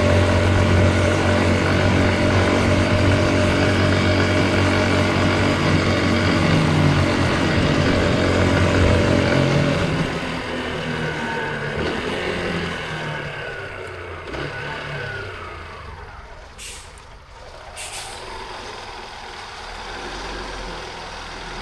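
Street traffic heard from a motorcycle: a loud, steady engine for about ten seconds, then quieter traffic noise with two short hisses near the end.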